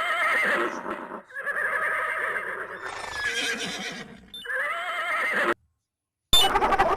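Horse whinnying, three times in a row, each call a shaky, wavering neigh. Near the end it cuts off abruptly and a different animal sound begins.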